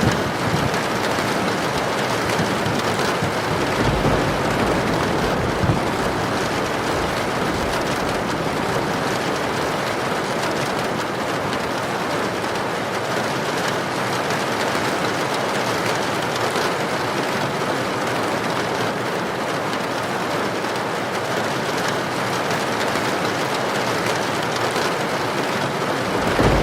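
Heavy rain falling steadily with wind, an even, unbroken wash of noise, with a brief low rumble about four seconds in.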